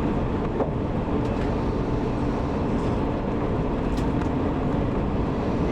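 Steady running noise inside a 185 series electric train car: a low rumble of wheels on rail, with a couple of faint clicks about half a second in and about four seconds in.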